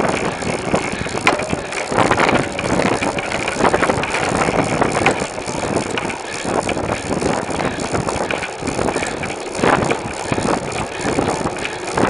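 Riding noise picked up by a camera mounted on a moving bicycle: a steady rush of air and road, broken by frequent small knocks and rattles.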